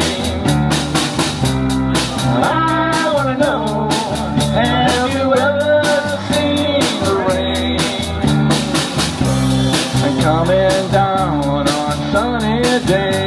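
Rock band music: a drum kit keeping a steady beat under held bass notes, and a lead melody line that bends in pitch.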